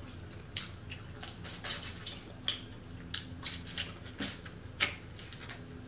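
Close-up wet eating sounds: chewing with irregular lip smacks and clicks, two of them louder at about four and five seconds in.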